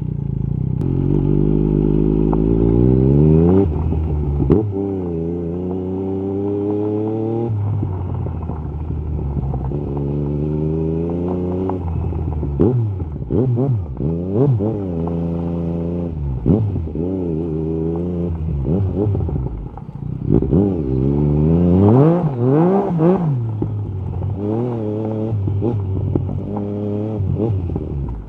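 Yamaha MT-09 SP's inline-three engine through an Akrapovic carbon Racing-Line exhaust with the dB killer removed, accelerating hard through two gears with upshifts. Then it rolls off and runs through a series of quick throttle rises and falls, before pulling hard again near the end.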